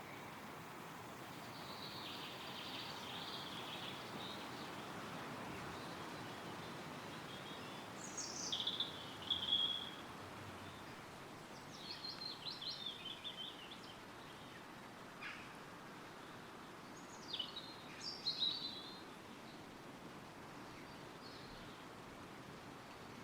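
Wind rustling through woodland trees, swelling for a few seconds early and then easing, with a songbird singing short, quick phrases several times through the second half.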